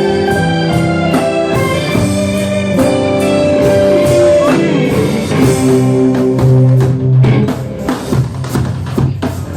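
A band playing instrumental music: guitar melody in held notes over a steady drum-kit beat, the drums coming forward in the second half.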